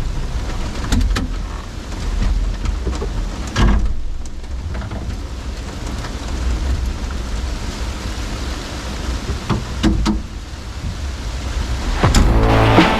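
Steady heavy rain falling, broken by a few sudden thumps, the loudest about a third of the way in and near the end.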